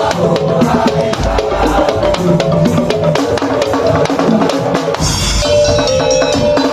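Madurese tong-tong (ul-daul) percussion ensemble playing fast, driving drum rhythms with struck pitched percussion carrying a melody. A brighter, higher-pitched layer joins about five seconds in.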